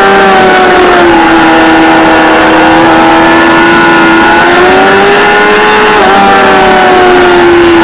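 Kawasaki ZXR400's inline-four engine running hard at high revs on track, heard close up over wind noise. The pitch drops slightly about a second in, holds steady, then climbs again from about four seconds with a brief dip near six seconds.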